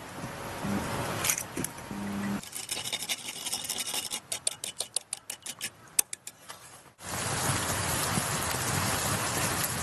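Kitchen knife chopping on a cutting board: a quick run of sharp knocks, about five a second. It gives way suddenly to a steady rushing hiss.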